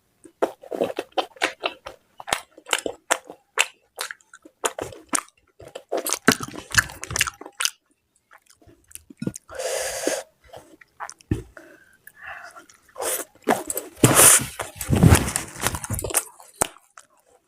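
Close-miked mouth sounds of a person eating mutton curry with luchi and salad: wet chewing with many irregular smacks and crunches. A louder noisy burst comes about ten seconds in, and a longer, louder stretch near the end.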